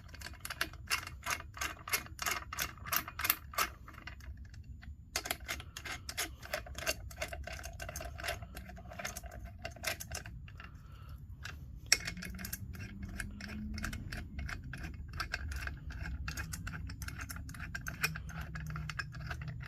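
Socket ratchet clicking in quick runs of strokes, with a couple of short pauses and one sharper click about twelve seconds in. The ratchet is running the bolts down in a cross pattern on a Chrysler 8¾ Sure-Grip differential case.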